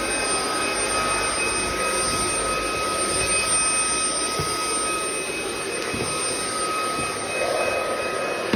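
BISSELL ICONpet Turbo cordless stick vacuum running steadily: a steady high motor whine over rushing air.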